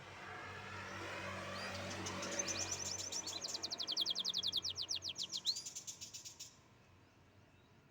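Canary singing: a warbling phrase that builds into a fast trill of repeated high notes, which cuts off abruptly about six and a half seconds in.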